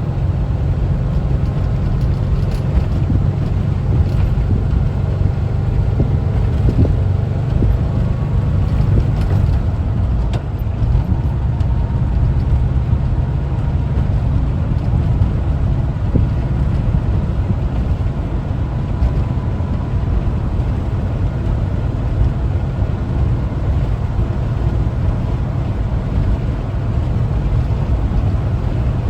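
1974 Volkswagen Westfalia's air-cooled Type 4 flat-four engine running steadily as the camper is driven, with road noise under it.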